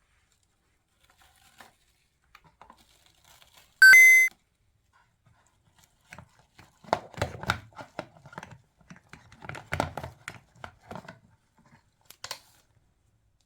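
A short, loud, bright chime about four seconds in, then several seconds of crinkling and tearing handling noise, like plastic packaging being opened.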